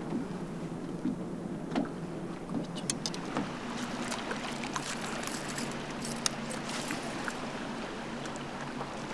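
A bass boat's motor running with a steady hum, with scattered small clicks and knocks over it.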